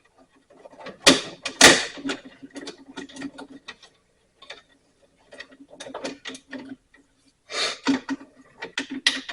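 Irregular clicking and rattling of hand tools and metal parts being handled, with louder clatters about a second in and again near the end.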